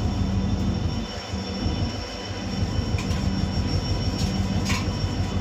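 Diesel locomotive engine running with a steady low drone and a faint steady whine, with a few sharp clicks in the second half.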